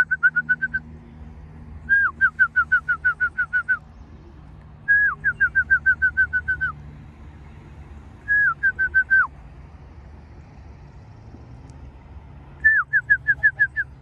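A songbird singing a phrase of rapid, clear whistled notes, about eight a second, each phrase opening with a note that slides down. It repeats the phrase five times, roughly every three seconds.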